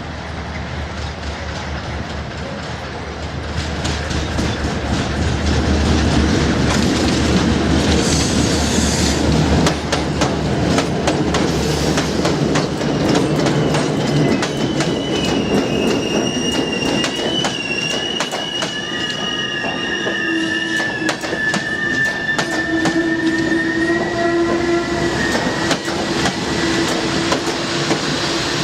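Passenger train pulling into a station and slowing: a low rumble as the train passes, wheels clicking over rail joints, then long, steady high-pitched squeals from the braking wheels through most of the second half.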